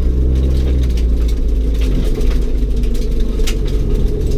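Rally car engine heard from inside the cabin, running low and steady while driving on a gravel road. Its clear engine note breaks up about a second in into rumbling road noise, with scattered clicks of gravel.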